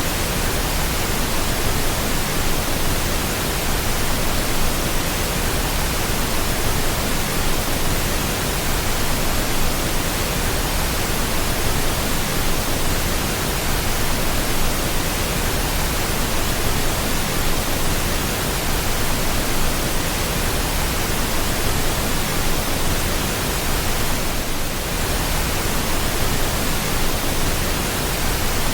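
Steady pink noise: an even, unbroken hiss spread across the whole range, with a brief slight dip about twenty-four seconds in.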